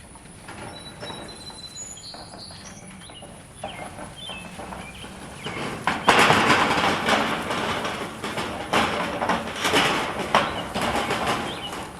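Birds chirping faintly, then from about six seconds in a loud, uneven rustling and scraping noise that dominates.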